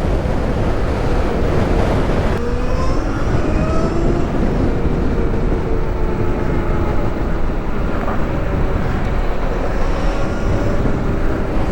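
Wind rushing over the microphone while riding an electric motorcycle at speed, with a faint whine from its motor that comes in about two seconds in and slowly rises in pitch.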